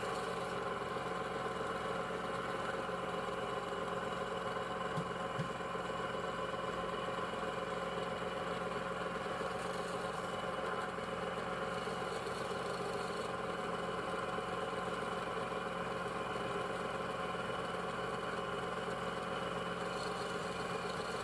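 Industrial machine running steadily: an even mechanical hum with several constant tones and no strokes or changes in pitch.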